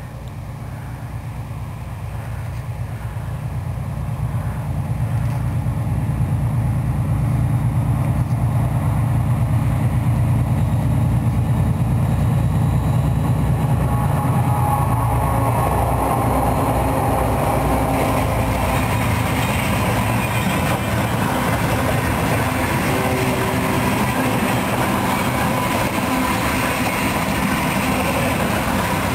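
2TE10M twin-section diesel locomotive with its 10D100 two-stroke diesel engines running, growing louder over the first several seconds as it approaches and passes. From about halfway, the wheel and rail noise of the freight wagons rolling by takes over.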